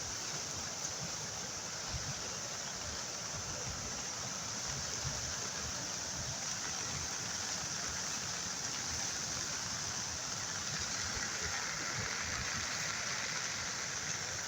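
Steady rushing of a swollen river in flood, a continuous even hiss of fast-moving water.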